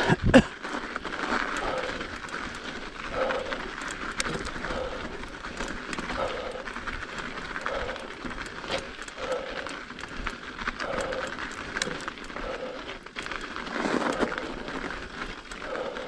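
Mountain bike riding over packed snow and ice: a steady rolling noise from the tyres and drivetrain with a soft regular pulse about every three-quarters of a second, scattered clicks and rattles, and a knock just after the start.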